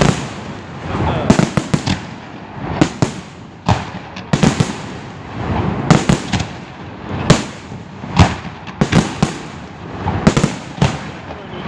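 Aerial fireworks shells bursting in quick succession at a large professional display: a string of sharp bangs, one or two a second, some in close pairs, each trailing off in an echo.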